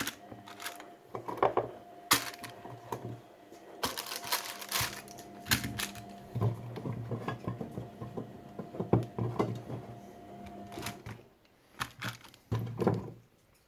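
Potatoes being put into a roasting dish around a chicken: a run of irregular clunks and clicks. A steady hum runs underneath and stops near the end.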